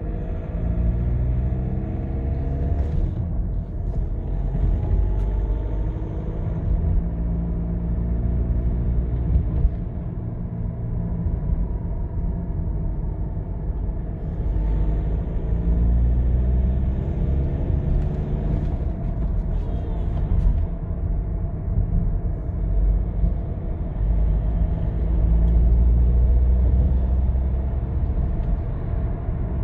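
VW 2.0 TDI four-cylinder diesel running, with a hooting tone under the hood that slides up and down in pitch twice, the 'sad owl noise'. The owner reports it comes when revs fall below about 1600 rpm on a cold engine and that it remained after the turbo was replaced, though the dealer had blamed the turbo's variable geometry.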